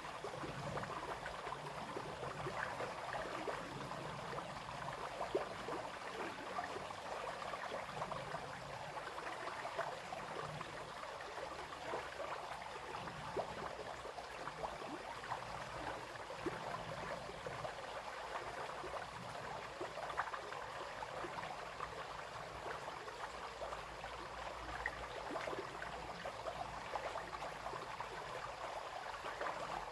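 Small brook babbling and splashing over stones, a steady run of water with lots of little quick splashes.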